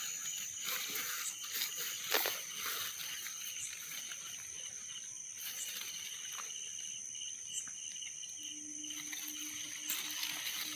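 Insects calling in a forest: a steady high-pitched trill throughout with a fainter pulsing one beneath it, and a lower pulsing call joining near the end. Scattered rustles and clicks from handling are heard mostly in the first half.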